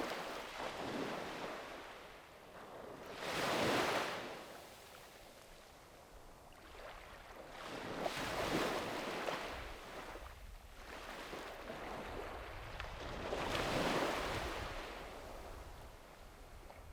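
Sea waves breaking and washing up the shore, one surge of surf every four to five seconds, each swelling up and then fading away.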